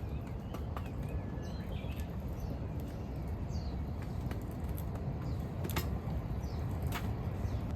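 Outdoor ambience: faint small bird chirps over a steady low rushing background, with a couple of sharp clicks near the end.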